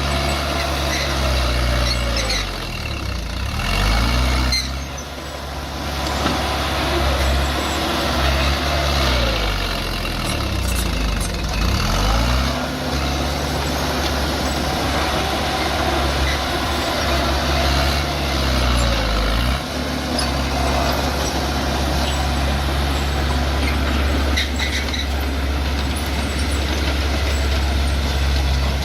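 Bulldozer's diesel engine running under load, its pitch dipping and recovering several times as it works, then holding steady for the last several seconds.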